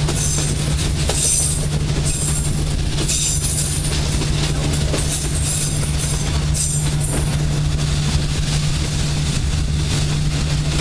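Vietnam Railways passenger train running, heard from a coach window: a steady low rumble and hum from the running gear, with high-pitched wheel squeals coming and going through the first seven seconds or so as the train rounds a curve.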